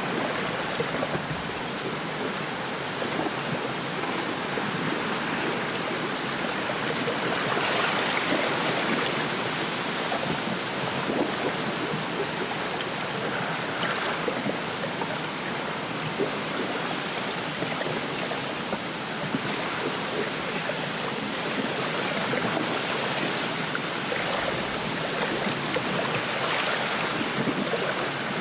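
Wind rushing through a lakeside reed bed, with small waves lapping at the shore. The wind swells in gusts, most strongly about 8 seconds in and again near the end.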